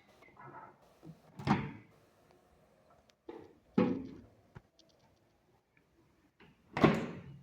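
Microwave oven door clunking three times, a few seconds apart, each knock ringing briefly as it dies away.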